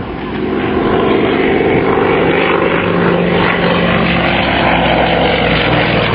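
Yakovlev Yak-52's nine-cylinder radial piston engine and propeller as the aerobatic plane flies its display, the drone swelling over the first second and then holding steady, with the pitch sagging a little near the end.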